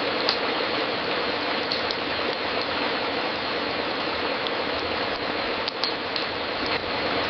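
Wood fire crackling in a fireplace: scattered sharp pops and snaps over a steady hiss.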